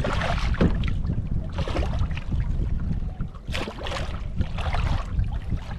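Wind rumbling steadily on the microphone aboard a fishing kayak at sea, with irregular short splashes and knocks breaking through every second or so.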